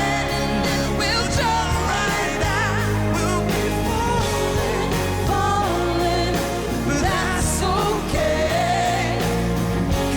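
Live pop ballad: singers carrying long wavering vocal runs over a full band accompaniment, without clear words.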